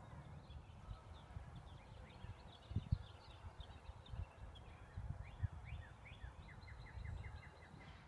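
Birds chirping in short descending notes, with a quick run of them near the end, over gusty wind rumble on the microphone.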